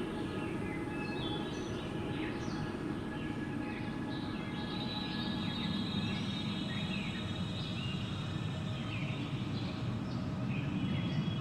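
Steady wind with birds chirping in short, scattered calls, over a soft sustained tonal drone like ambient music.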